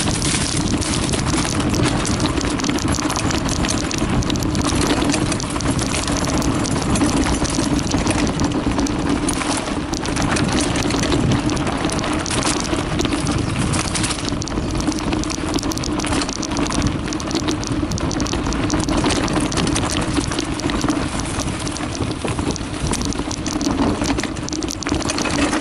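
Mountain bike (Carraro Big 827) rolling down a dirt trail: tyres crackling over the rough ground, the chain and frame rattling, over a steady low hum.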